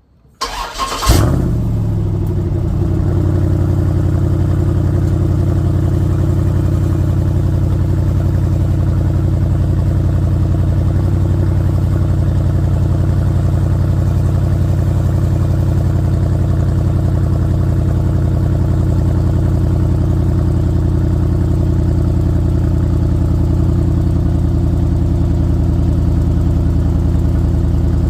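Jeep Grand Cherokee SRT8's Hemi V8 cold start: brief cranking, a loud flare as it catches about a second in, then settling within a couple of seconds into a steady fast idle.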